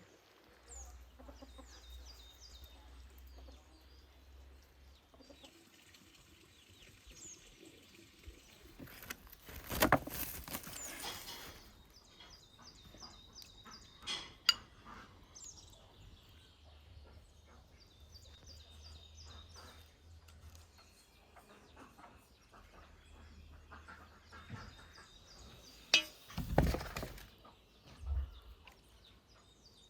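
Chickens clucking with small birds chirping in the background, broken by two louder noises, one about a third of the way in and one near the end.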